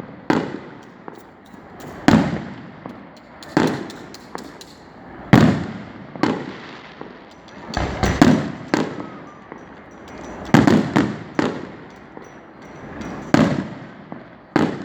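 Aerial fireworks shells bursting: about a dozen deep booms, one to two seconds apart, with a quick cluster of three near the middle. Each boom rolls off in an echo, and faint crackling comes between them.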